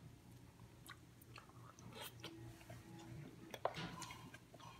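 Faint chewing of a piece of fried meat, with scattered soft clicks.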